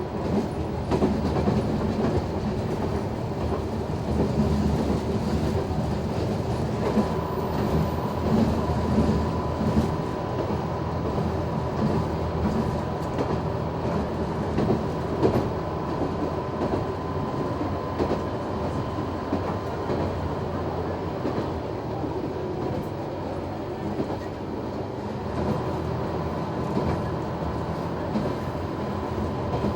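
Noto Railway NT100 diesel railcar running along the line, heard from inside the car: a steady running drone with the clickety-clack of the wheels over rail joints. A thin, steady high tone joins in about a quarter of the way through.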